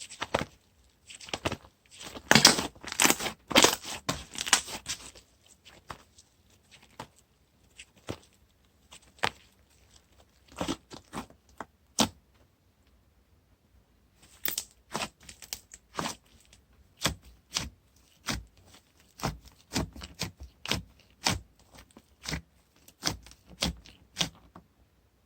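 Hands working a thick slime, with sticky crackling pops and clicks: a dense crackly burst in the first few seconds, scattered single pops, then a steady run of pops about one or two a second near the end.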